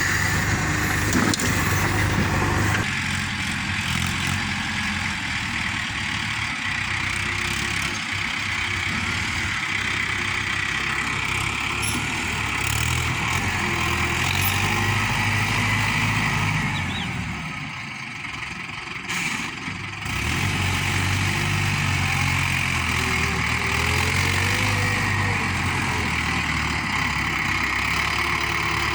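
Heavy diesel machinery engine running steadily, briefly dropping in level about two-thirds of the way through before picking up again.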